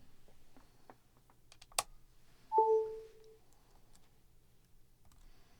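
Computer keyboard keys and mouse clicks, sparse and irregular, with one sharper click. About two and a half seconds in comes a short electronic notification chime of two notes, the lower held a little longer; it is the loudest sound.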